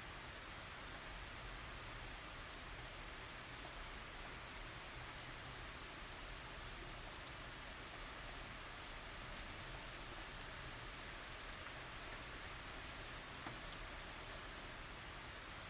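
Steady tropical rain falling, a constant hiss with fine drop patter, no thunder.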